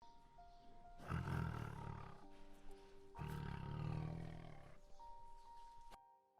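Two deep roars from a large animal, the first about a second in and the second a second or so later and longer, over faint background music.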